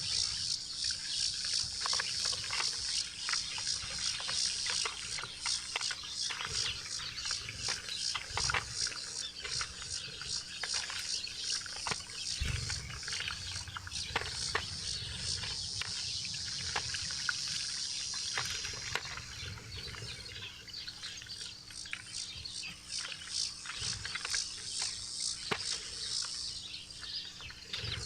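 Small wild birds chattering at a backyard feeder, a dense high twittering with many quick sharp taps and clicks, over a faint steady low hum.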